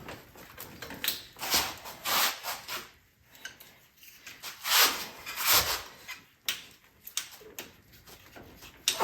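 Clunks, scrapes and rattles from parts and tools being handled while the front bumper of an ATV is worked on: several separate knocks, the loudest about two seconds in and near the middle.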